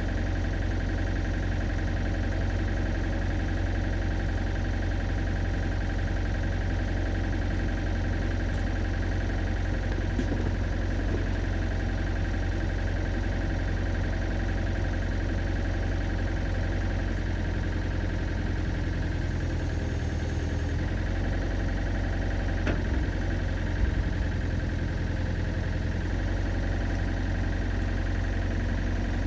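Excavator engine idling steadily, with a couple of short knocks about three quarters of the way through.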